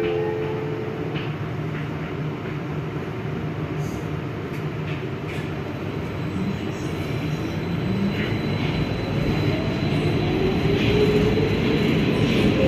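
Metro train running in a tunnel, heard from inside the carriage: a steady rumble of wheels and motors that grows louder through the second half as the train gathers speed.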